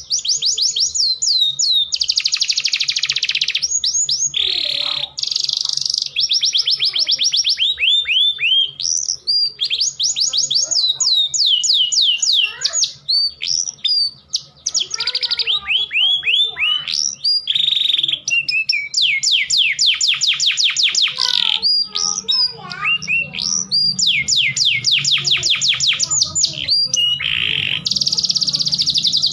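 Male domestic canary in full song, running through fast trills of rapidly repeated notes, many sliding downward, with short breaks between phrases. A faint steady low hum sits underneath and grows stronger in the last third.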